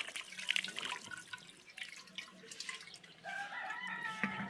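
Water trickling and dripping, with scattered drips in the first few seconds. About three seconds in, a drawn-out call with a steady pitch starts and carries on to the end.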